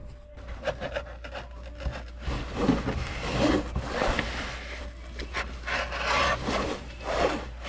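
Doormat carpet being cut and trimmed by hand: irregular rasping, scraping strokes that swell and fade several times.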